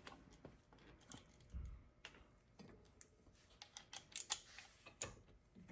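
Faint, scattered clicks and light knocks, a few seconds apart, from metal tools and brake caliper parts being handled.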